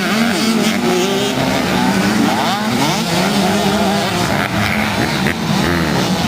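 Several motocross bike engines revving hard, their pitch rising and falling and overlapping as the riders accelerate and shift.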